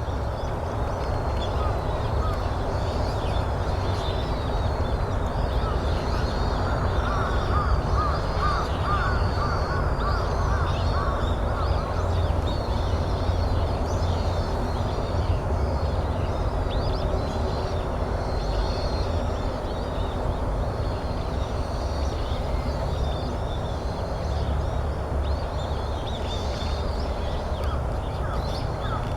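Crows cawing, with a run of repeated calls in the middle, over a steady low rumble and the constant high twittering of small birds.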